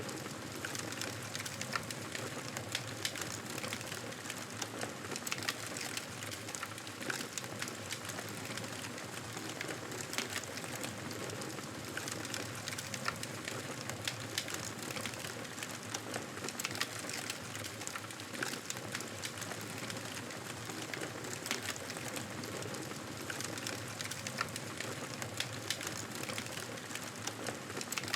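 Wood fire crackling, with frequent small irregular pops over a steady hiss.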